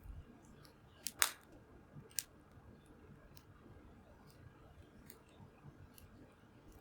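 Wood fire crackling: scattered faint pops and ticks, with a loud double pop about a second in and another sharp pop just after two seconds.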